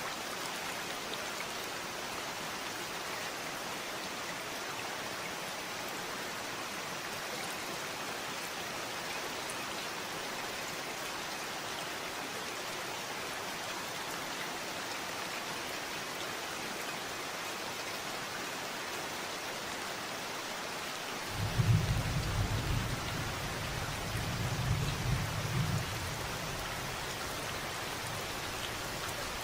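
Steady rain falling. About two-thirds of the way through, a deep rumble of thunder starts suddenly, swells twice over about five seconds, then fades back under the rain.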